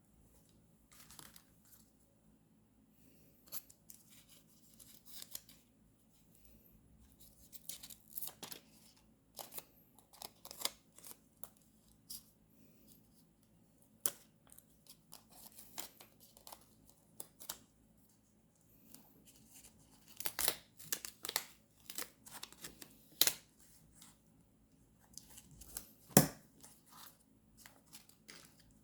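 Scissors snipping and paper tearing and crinkling as paper and stickers are cut for a journal page. The sounds come in short, irregular strokes, the sharpest a snap near the end.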